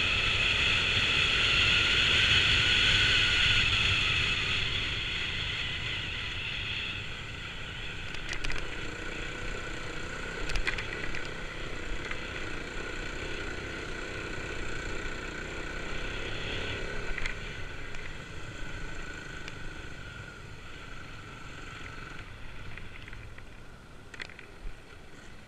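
Kawasaki KLX250's single-cylinder four-stroke engine running as the bike is ridden, loudest in the first few seconds and then easing off. A few sharp knocks break in along the way.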